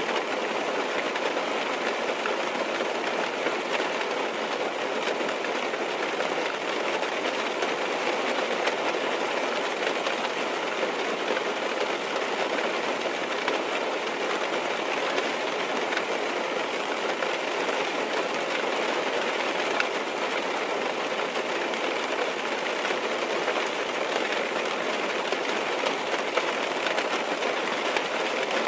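Steady rain falling on a car's roof and windows, heard from inside the car as an even hiss with faint patter.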